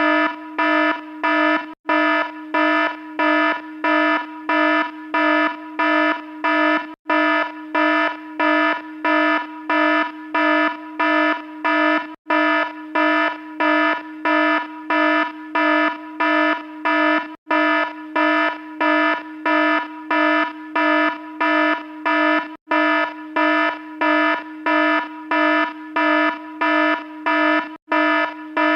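Electronic alarm sounding a buzzy tone in even pulses, about two a second, with a tiny break every five seconds or so where the recording loops.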